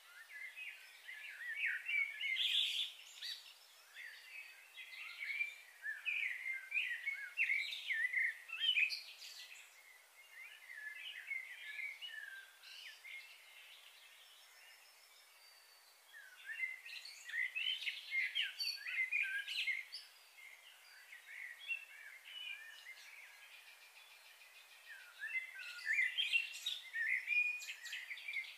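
Birds chirping, a jumble of quick high calls in three busy bouts with quieter gaps between.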